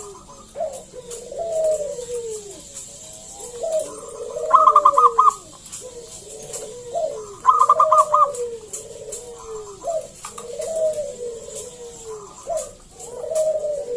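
Zebra dove (perkutut) cooing over and over in soft, gliding phrases. Two louder bursts of fast, rattling notes come about four and a half and seven and a half seconds in.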